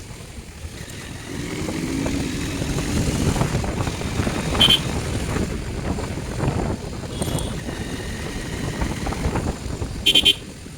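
Motorcycle running along a road in traffic, engine and road rumble throughout. Short vehicle horn beeps sound about five seconds in and twice in quick succession near the end.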